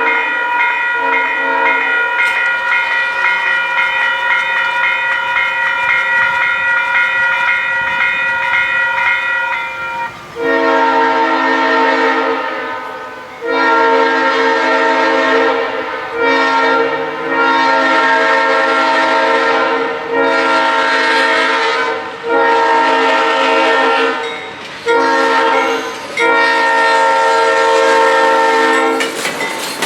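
Several diesel locomotive air horns blowing together in a multi-note chord for a grade crossing: one continuous blast for about the first ten seconds, then a string of long blasts broken by brief gaps.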